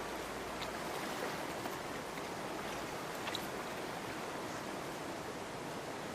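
Steady rush of running stream water, with a couple of faint ticks.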